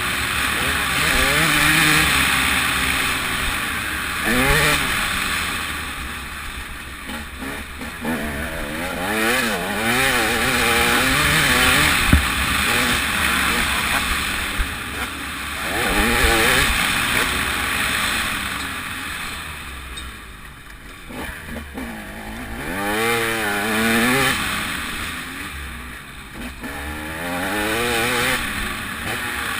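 TM 300 two-stroke motocross bike engine being ridden hard, its pitch climbing and dropping again and again as the throttle is opened and shut, under a steady rush of wind noise.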